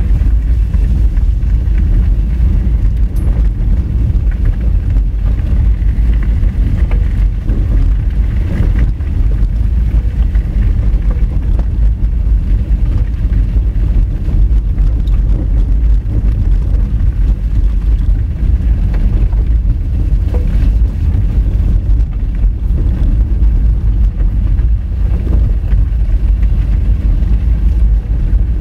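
Honda Fit hatchback driving over a rough gravel road: a steady, loud low rumble of tyres and running gear on the loose stones, with faint crackles of gravel through it.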